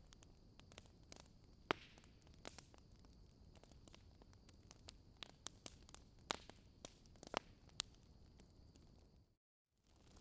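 Wood fire crackling in a fireplace: irregular sharp pops and snaps over a faint steady hiss. The sound cuts out completely for a moment near the end.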